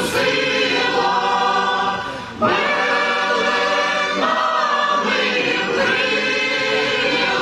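Church choir singing a Ukrainian Christmas carol (koliadka) in held chords, pausing briefly about two seconds in before starting the next phrase.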